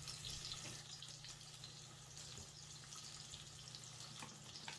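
Fish shallow-frying uncovered in oil on a hot tawa: a soft, even sizzle with faint scattered crackles.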